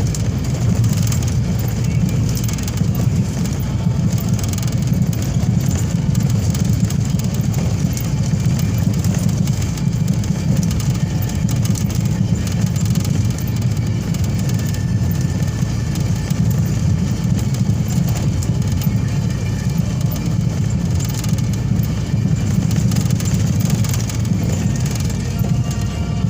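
A car driving along a highway: a steady low rumble of road and engine noise.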